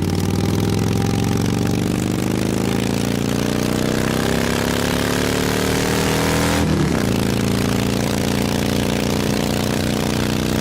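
Motorcycle engine accelerating, its pitch climbing steadily, then dropping at a gear change about seven seconds in and climbing again.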